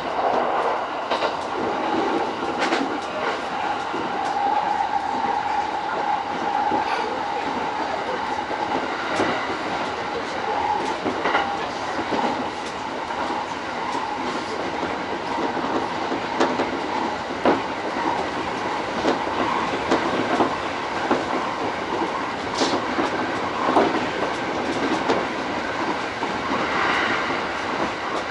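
Running noise of an E231-series commuter electric train heard from inside the leading car: a steady rumble with wheels clicking over rail joints at irregular intervals. A high tone holds for several seconds in the first third of the passage.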